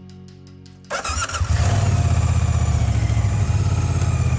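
Moto Guzzi Stelvio's transverse V-twin engine starting about a second in, with a brief starter whine as it catches. It then settles into an even, pulsing idle.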